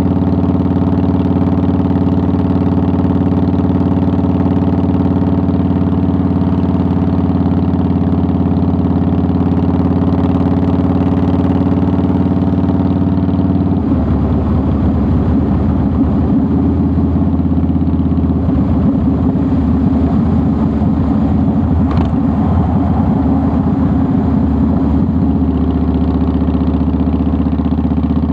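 2009 Harley-Davidson Softail Deluxe's V-twin engine running steadily, then turning uneven and choppy for about twelve seconds from about halfway, with a sharp click about three-quarters of the way in, before settling back to a steady note near the end.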